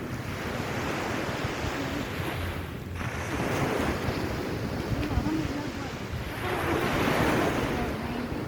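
Surf washing onto a beach in repeated swells, each surge rising and falling over a few seconds, with wind rumbling on the microphone.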